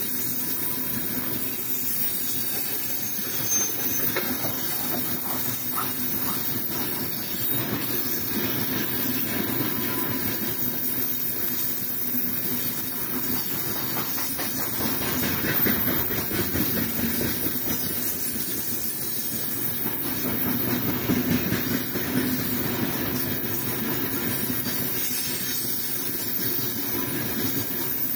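Freight train's open gondola wagons rolling past: a steady rumble and hiss of steel wheels on the rails, with a few faint clicks.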